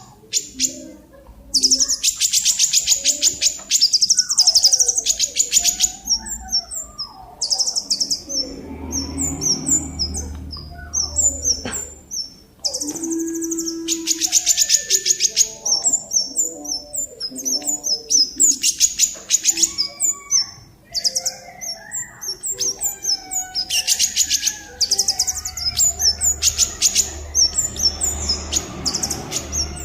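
A caged songbird singing: fast, high-pitched trills lasting about a second each, broken up by runs of short sharp chirps.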